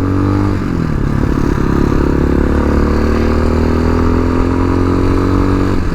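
Tao Tao TBR7 dual-sport motorcycle's single-cylinder engine running under way. Its note drops about half a second in, then climbs slowly and steadily as the bike pulls.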